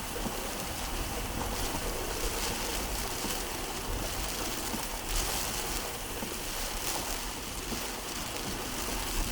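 Hurricane storm noise: steady wind and rushing water, with wind buffeting the microphone as a low rumble.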